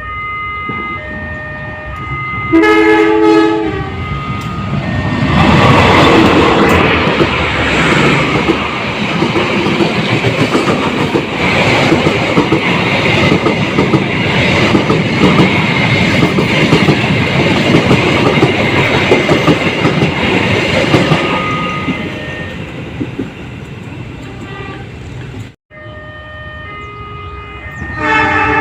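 Indonesian CC 201 diesel-electric locomotive sounding its one-note horn briefly. The train then passes close with a loud rumble and wheel clickety-clack for about fifteen seconds before fading away.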